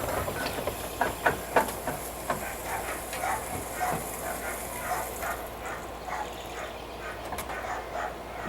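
A scale-model steam traction engine running, its exhaust beating about three times a second over a hiss of steam. The hiss drops away a little past the middle, and a few sharper clicks come early on.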